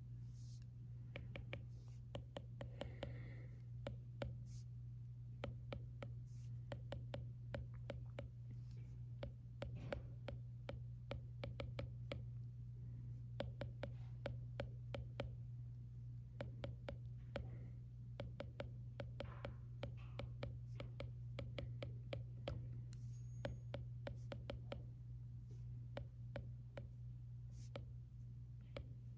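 A stylus tapping and sliding on an iPad screen during note-taking, an irregular run of small quick clicks, over a steady low background hum.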